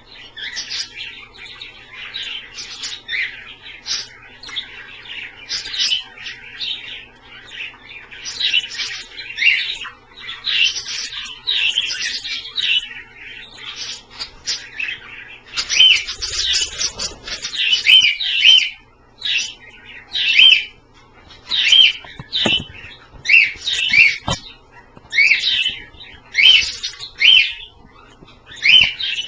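Pet budgies and cockatiels chirping and chattering without a break. About halfway through the calls get louder and settle into a run of repeated chirps, roughly one a second.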